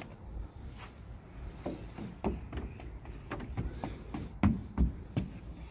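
Irregular light clicks and taps of small plastic toys and packaging being handled.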